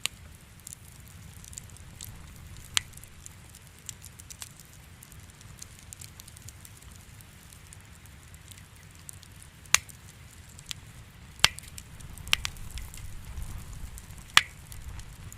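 Wood fire in a fireplace crackling: sharp pops scattered irregularly, a few of them loud, over a low steady rumble of the flames that grows a little louder near the end.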